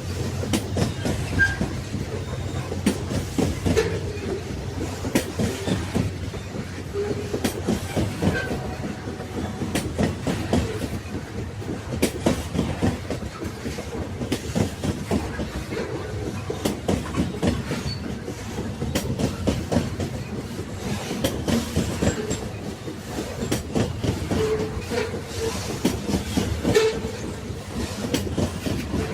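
Railway wagons rolling along the track: a steady low rumble with frequent irregular knocks and clanks of the wheels over the rails.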